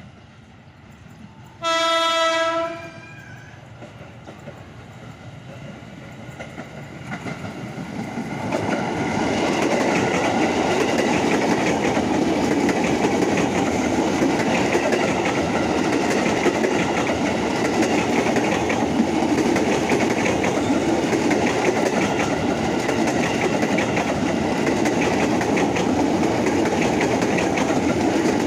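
KRL Commuter Line electric train sounds one horn blast, about a second long, then approaches and runs past close by, its wheels clacking steadily over the rail joints from about nine seconds in.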